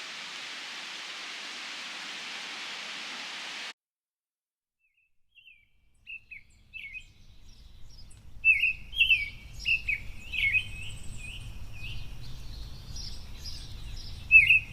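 A steady rushing noise that cuts off abruptly, then a couple of seconds of silence. Small birds then start chirping in quick short notes, busier and louder toward the end, over a faint low rumble.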